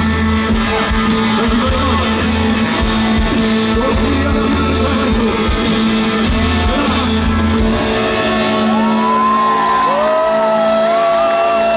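Live rock band playing with singing and a heavy steady beat. Long held vocal notes come in during the last few seconds.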